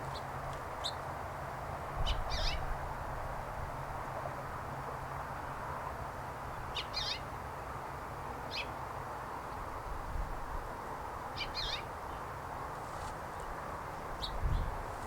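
Birds giving short high calls, one brief call every few seconds, over a steady outdoor hiss and a low rumble.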